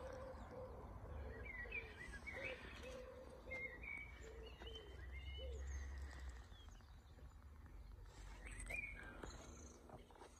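Birds chirping faintly, short scattered calls with a run of lower repeated notes in the first half, over a low rumble.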